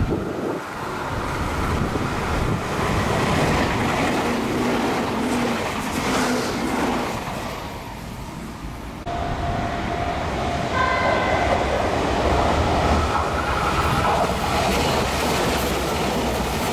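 Meitetsu electric trains passing through a station without stopping. The rumble and wheel clatter of one train rise and fade over the first several seconds. After an abrupt change, a steady tone sounds while a second train's rumble builds and it runs past.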